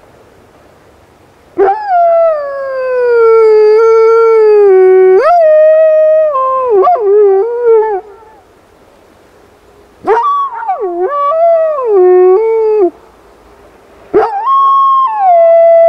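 Wolf dog howling: three long howls, each starting high and sliding down in pitch with some wavering, the first lasting about six seconds and the last running on past the end.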